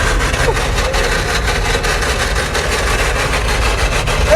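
Old 3-ton grain truck's engine running steadily, a heavy low sound with an even pulsing.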